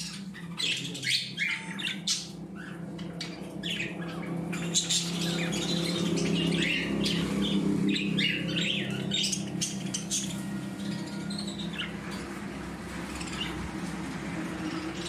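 Birds chirping and squawking in many short calls scattered throughout, over a steady low hum.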